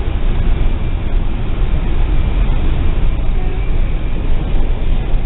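Cars of a Canadian National mixed freight train rolling past at a grade crossing, their wheels giving a steady, deep rumble on the rails as the train picks up speed, heard from inside a car with the windows up.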